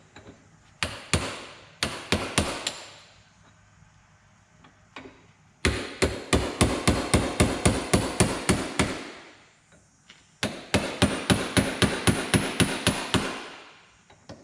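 Hammer striking a chisel set on a link of a steel drive chain, popping the top plate off the cut link to break the chain to length. A few separate blows near the start, then two quick runs of sharp, ringing strikes at about four to five a second with a short pause between them.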